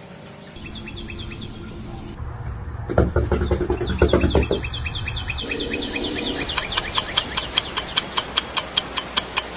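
A small bird chirping in short, repeated high notes that quicken to about four a second in the second half, with a low rumble under the chirps for a second or two in the middle.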